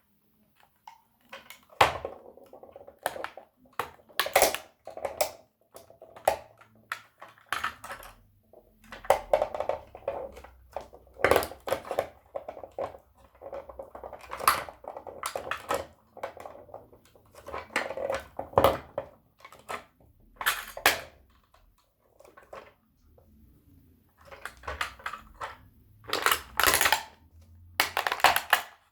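A toy tow truck and toy car being crushed and stepped on: irregular sharp cracks and snaps with grinding, creaking crunches between them, broken by a few short pauses.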